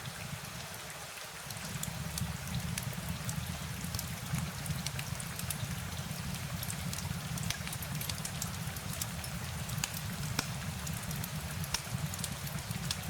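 Steady rain with many scattered sharp drop ticks over a constant low rumble.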